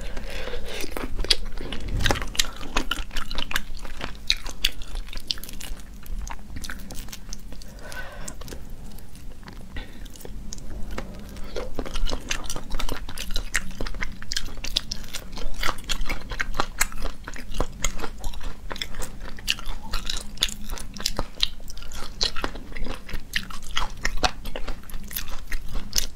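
Chewing and crunching of boiled crayfish eaten with their soft shells unpeeled: many quick crisp crunches, thinning out for a few seconds in the middle.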